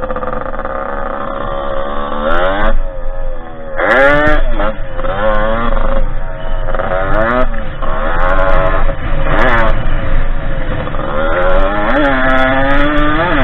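Derbi 50cc two-stroke engine on a small dirt bike being ridden, revving up and dropping back several times as the throttle is opened and closed, with a long climb in pitch near the end.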